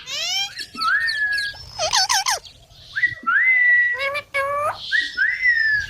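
Indian ringneck parakeets whistling and chattering: several short whistles that rise and then hold steady, mixed with quicker wavering calls.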